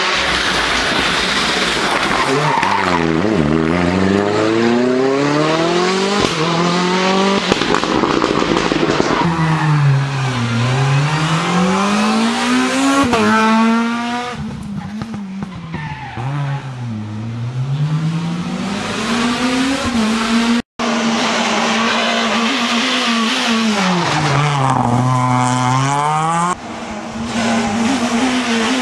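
Rally car engines revving hard, the pitch climbing through the gears and dropping off under braking and downshifts, again and again. The sound cuts briefly about two-thirds of the way through, and a second pass of the same kind follows.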